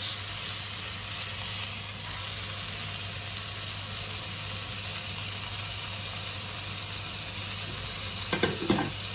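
Tenderloin steak sizzling steadily in a hot grill pan, with a short louder sound near the end.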